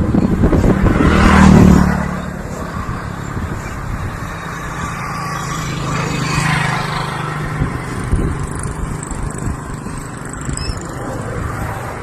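A motor vehicle's engine passing, loudest about a second and a half in, then a steadier engine hum fading off.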